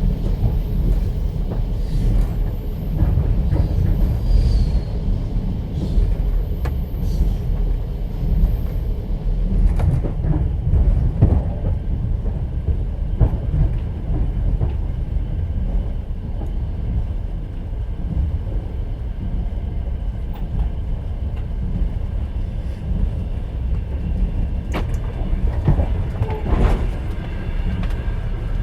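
Moving train heard from inside a platzkart sleeper carriage: a steady low rumble of the running gear with wheel clatter, and scattered short clicks and knocks from the carriage.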